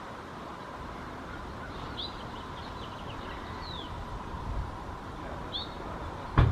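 Wild birds giving a few short, high chirps over steady outdoor background noise, with a sharp click near the end.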